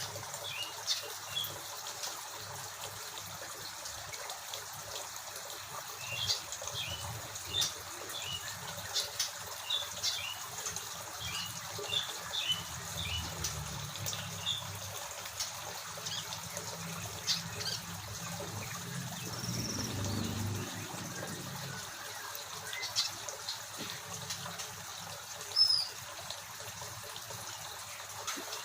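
Several small birds in an aviary chirping and twittering in quick short notes over a steady hiss. A single louder, falling call comes near the end.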